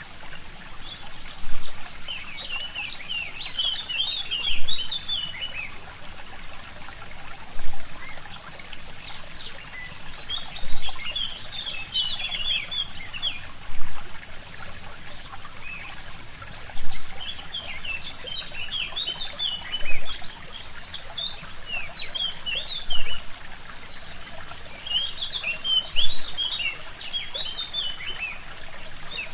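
A small stream trickling steadily, with a louder pulse about every three seconds, while forest songbirds sing in bursts of quick high twittering notes.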